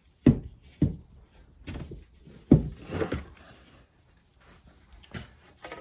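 A length of ABS pipe knocked down over the fork tube onto the spacer, driving a new fork bushing into place: several sharp knocks at irregular spacing, the loudest about two and a half seconds in, with some sliding and scraping between them.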